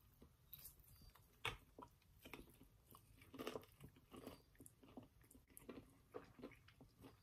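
Two people biting and chewing breaded fried chicken tenders, close to the microphone: a run of faint, irregular crunches and mouth sounds.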